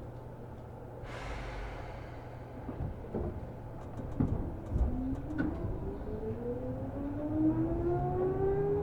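Seibu New 2000 series electric train pulling away from a station, heard from inside the car: a hiss of air about a second in, a few clunks, then the traction motors' whine rising steadily in pitch from about five seconds in as it accelerates.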